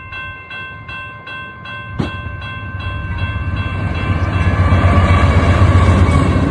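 A bell rings in rapid, even strikes, about three a second, like a railroad crossing bell, while a train approaches. Its low rumble grows steadily louder and drowns the bell. A sharp knock comes about two seconds in.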